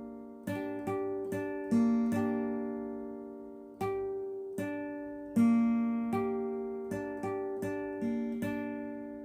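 Acoustic guitar strummed on one chord by a beginner, in a loose, uneven rhythm. Each strum rings out and fades before the next, with a few harder strums standing out.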